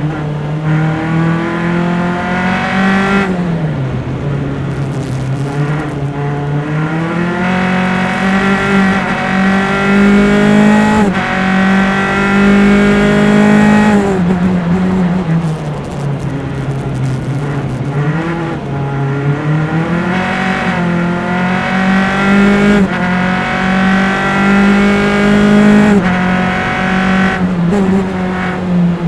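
Single-seater formula race car engine at racing speed, heard close up. The pitch climbs repeatedly as it accelerates through the gears, dropping sharply at each gear change and dipping under braking before pulling up again.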